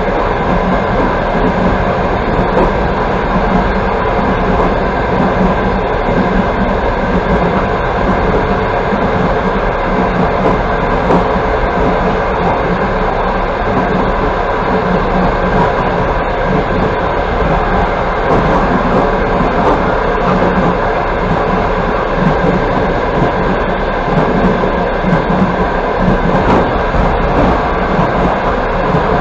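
Passenger train coach running at speed, heard from on board: a steady noise of wheels on rails that stays even throughout.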